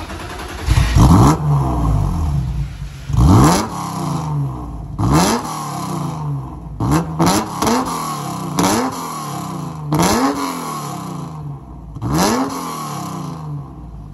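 BMW E39 engine blipped repeatedly through a remote-controlled Varex valved performance exhaust: about nine sharp free-revs, each rising fast and falling slowly back to idle, with a quick run of three blips about seven seconds in.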